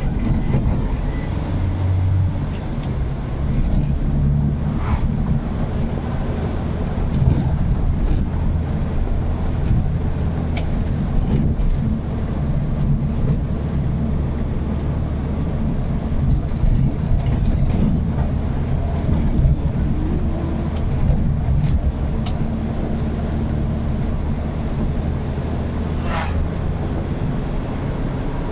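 Old Suzuki Katana's engine running steadily while driving, a continuous low drone with road noise and a few faint clicks.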